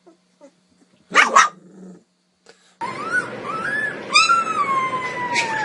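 A dog barks once, sharply, about a second in. After a short gap, a pet gives drawn-out, wavering calls over steady background noise, the longest one falling slowly in pitch.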